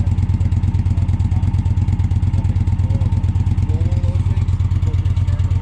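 Indian Challenger's V-twin idling steadily through a KHROME WERKS aftermarket exhaust, a loud, even, pulsing low exhaust note shortly after a cold start.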